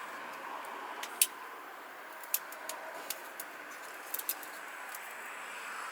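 Campfire crackling: a steady hiss with a few sharp pops and snaps, the loudest about a second in.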